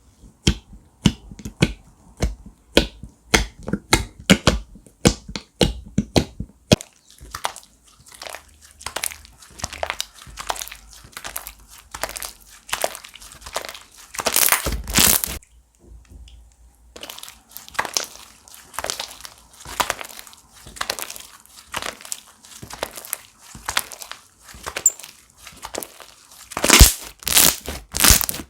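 Hands squishing, stretching and poking slime, making rapid wet clicks and crisp crackles, several a second. Two longer, louder crackling squeezes, one about midway and one near the end.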